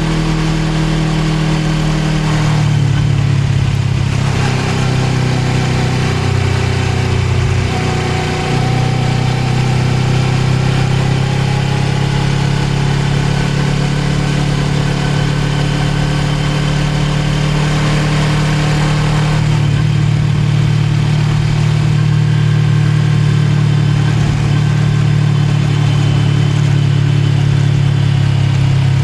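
Suzuki GSX250R's parallel-twin engine running as the motorcycle rides along, heard from on the bike over wind rush. Its note shifts a few times, about two and a half, eight and nineteen seconds in.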